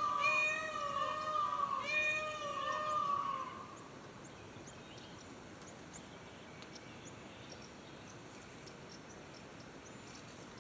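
Peacock calling: three loud wailing calls in quick succession, each about a second long and dipping then rising in pitch, stopping about three and a half seconds in. Faint high chirps of small birds follow over a quiet outdoor background.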